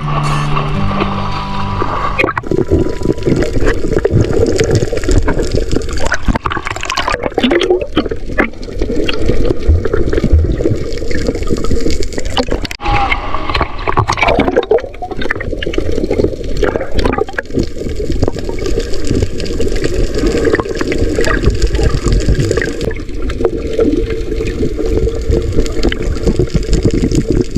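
Seawater sloshing and gurgling close around a camera at the sea surface, with irregular bubbling.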